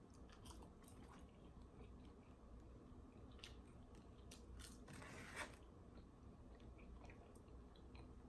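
Faint mouth sounds of eating crispy fried food from a fried chicken wing basket: scattered small crunches and chewing, with a louder crunchy bite about five seconds in.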